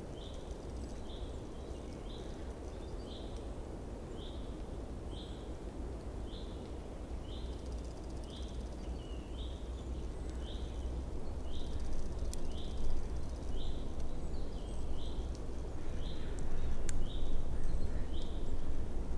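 A small bird repeating a short high chirp, about two a second, over a steady low outdoor rumble that grows louder in the second half, with a couple of sharp clicks.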